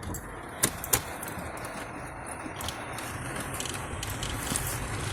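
Rain falling: a steady noisy hiss sprinkled with small drop ticks, growing a little toward the end, with two sharp clicks just under a second in.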